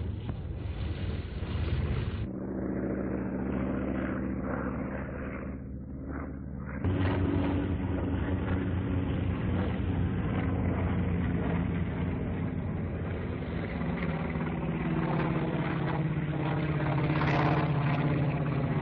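Focke-Wulf 190's radial piston engine droning steadily in flight, its pitch and level changing abruptly twice, about two and seven seconds in.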